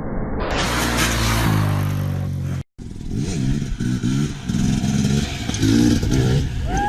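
Motorcycle engine running under a broad rushing hiss. After a brief break about two and a half seconds in, an engine revs up and drops back several times in quick succession.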